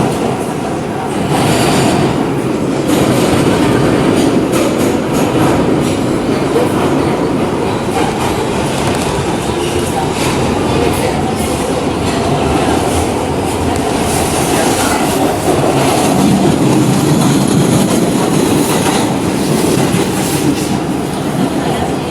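R211 subway car running along the track: a steady rumble of wheels on rail with irregular clacks as the wheels pass over rail joints.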